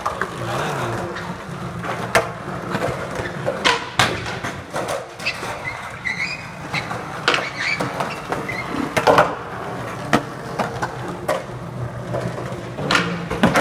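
Skateboard wheels rolling on concrete, broken by a dozen or so sharp, irregular clacks of boards popping and landing.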